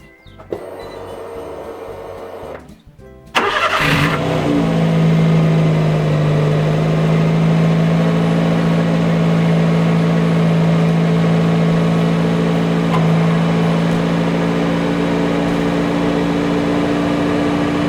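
Daihatsu Copen L880K engine cranking and catching about three seconds in, then idling steadily. This is the test start after the fuel pump was replaced.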